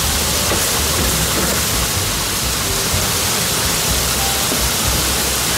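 Heavy rain pouring down in a thunderstorm, a loud, steady hiss.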